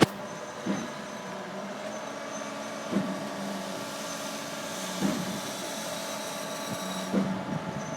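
Zoomlion 37 m truck-mounted concrete pump running, a steady machine hum broken by a knock about every two seconds as the pumping cycle changes stroke. A sharp click right at the start.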